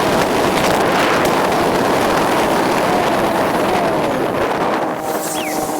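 Loud, steady rushing of sea wind blowing across the microphone, with surf beneath it; it starts and stops abruptly.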